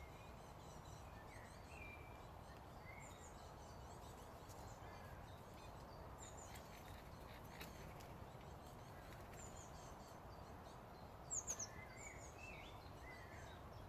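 Faint outdoor ambience with small birds chirping in the distance, a few sharp clicks around the middle, and a quick burst of three high chirps about eleven seconds in.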